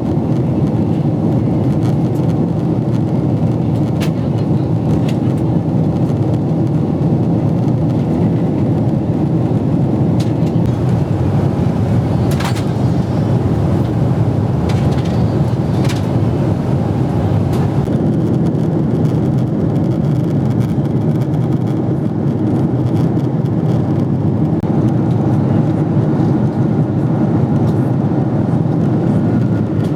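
Steady in-flight cabin noise of a Boeing 777-300ER: an even, low rushing drone of the engines and airflow past the fuselage, unchanging throughout, with a few faint clicks from the cabin.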